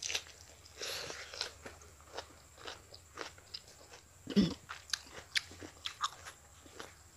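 A person chewing a mouthful of crisp lettuce from a green salad close to the microphone: irregular wet crunches and crackles. A louder, lower mouth sound comes a little over four seconds in.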